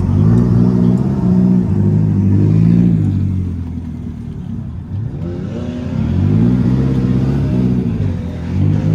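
Car engine running and revving: a steady engine note that holds, eases off about three seconds in, then climbs back up with a rising sweep about five seconds in and holds again.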